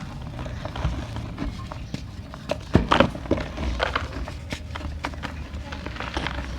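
Small dry clay pots and dry mud being crushed and crumbled by hand: irregular crisp cracks and crunches, the loudest cluster about three seconds in, over a steady low hum.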